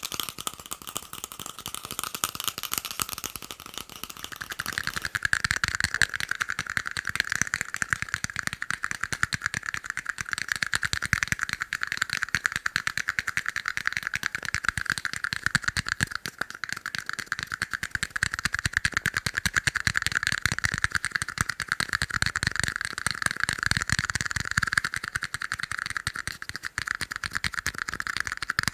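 Plastic cups being tapped fast and continuously: a dense stream of quick clicks with a light plastic ring, growing louder about four seconds in.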